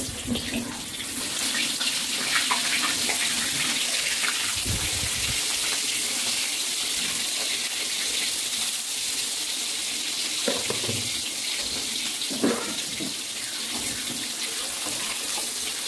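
Eggplant pieces sizzling in hot oil in an aluminium wok: a steady hiss that builds during the first second as the pieces go in, with a few light knocks of utensils.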